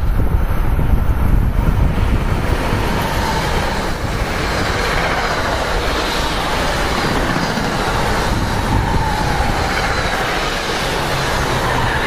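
NJ Transit Arrow III electric multiple-unit train running past close along the platform: steady rushing wheel and rail noise with a faint wavering whine from about three seconds in. Wind rumbles on the microphone at the start.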